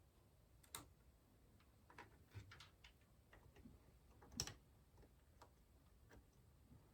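Scattered light clicks and taps of hands handling PC case parts, the loudest about four and a half seconds in.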